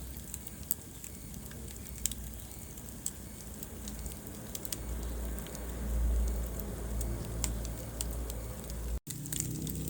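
Wood fire burning in a fireplace: scattered sharp crackles and pops over a steady low rumble of flames. Near the end the sound cuts out completely for a split second.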